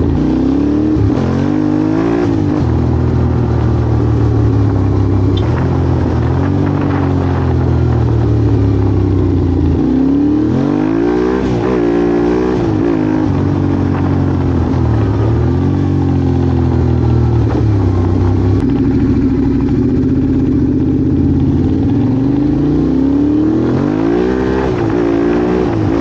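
Yamaha Ténéré 700's parallel-twin engine idling and revved with repeated throttle blips, loud and raw through a Mivv Storm exhaust with its dB killer removed and decatted headers. The engine rises and falls in pitch several times, with the longest run of revs about ten seconds in and another near the end.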